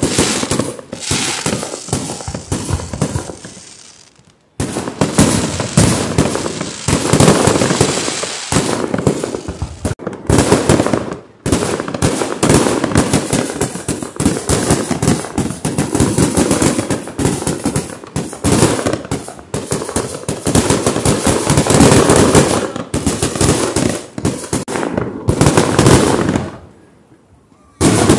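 Fireworks bursting in rapid, overlapping succession: a dense run of loud bangs and crackle, with brief lulls about four seconds in and near the end.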